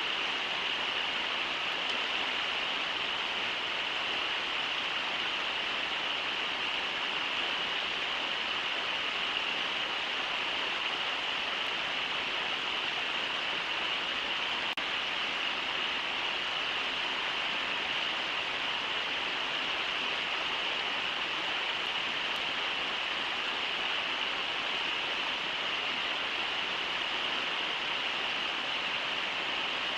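River water rushing over shallow riffles: a steady, unbroken hiss of flowing water.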